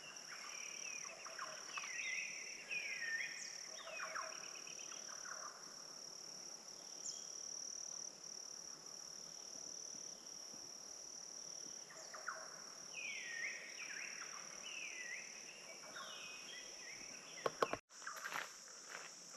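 Wetland dawn chorus: a steady high-pitched drone of crickets and insects, with a bird giving bouts of repeated falling calls twice. Near the end there are a few sharp clicks and a brief dropout.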